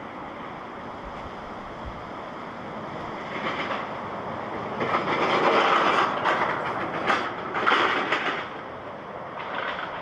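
Airbus A350-900 airliner with Rolls-Royce Trent XWB engines landing, its jet noise swelling, loudest a little past the middle, then easing off.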